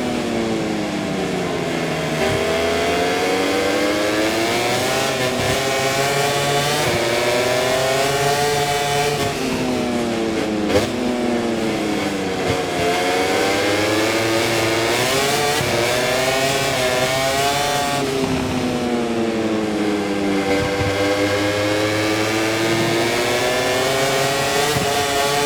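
Aprilia RS-GP MotoGP bike's V4 engine heard onboard, its pitch climbing as it accelerates through the gears and falling away under braking, in several long swings up and down.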